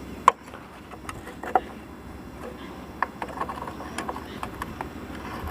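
Hand tools clinking and knocking on motorcycle chain-cover parts: a sharp ringing clink a moment in, another about a second and a half in, then lighter taps and ticks.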